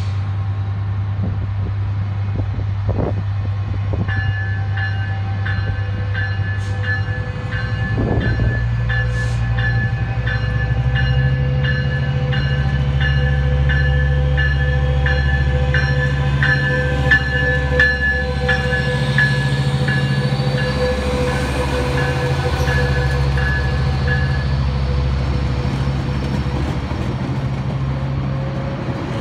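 Metrolink diesel locomotive pulling a train of bilevel coaches. Its engine runs with a low drone that steps up about ten seconds in as it throttles up, and a faint whine rises in pitch as the train gathers speed. A bell rings steadily about twice a second for most of the time, and the coaches roll past near the end.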